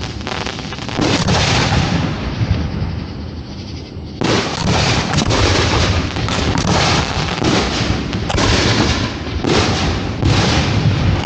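Fireworks display shells launching and bursting in rapid succession, with booms and crackle heard close to the firing site. The barrage eases briefly, then comes back suddenly and loudly about four seconds in with a quick run of bursts.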